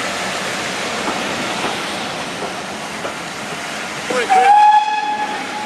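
Steam train running, a steady rumble with faint rail clicks, then about four seconds in a steam locomotive whistle sounds once as a steady tone for about a second and a half.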